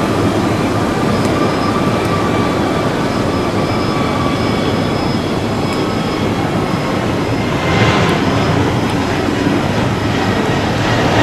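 Airbus A321neo airliner's jet engines running on the runway: a loud, steady rush of jet noise with a high whine over it, swelling louder and brighter about eight seconds in.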